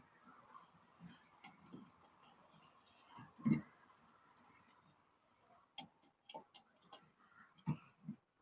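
Scattered light clicks and knocks, with one louder thump about three and a half seconds in and a quick run of clicks near the end.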